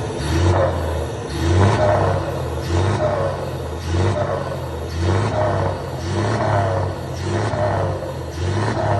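Turbocharged engine with a variable-geometry turbo being revved in quick repeated throttle blips, about one every second and a bit, each followed by a short falling turbo whistle.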